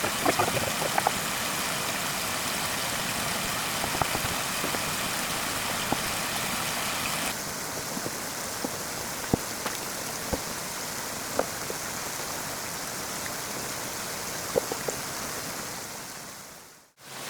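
Steady rushing hiss of running water, with scattered small knocks and clicks. The hiss drops a little about seven seconds in and fades out near the end.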